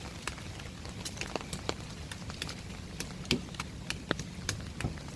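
Irregular sharp clicks and taps, about two a second, over a low steady rumble.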